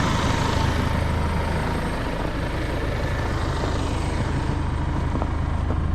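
Deutz tractor's diesel engine running steadily, a low even hum with a broad hiss over it.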